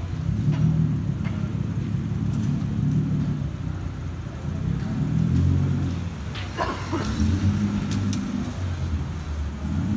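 A car engine running with a deep low rumble, its loudness swelling and dipping several times as it is revved.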